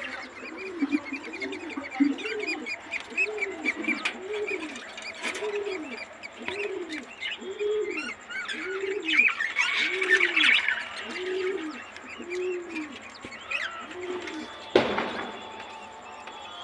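Budgerigars chirping and chattering, busiest about two thirds of the way through, over a steady run of low coo calls, a little more than one a second, that rise and fall like a dove's. A single sharp knock comes near the end.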